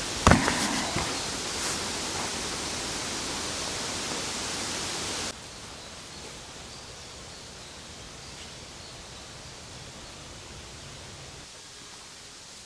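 Steady outdoor noise, like wind or water, with a few sharp knocks in the first second. About five seconds in it cuts suddenly to a quieter, thinner ambience.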